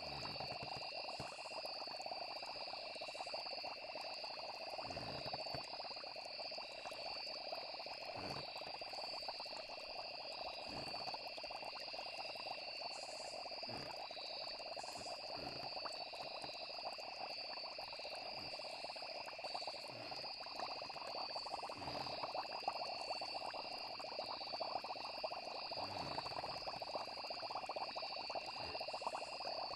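Layered night-time nature ambience: a steady chorus of crickets and frogs trilling, with a soft low plop every few seconds.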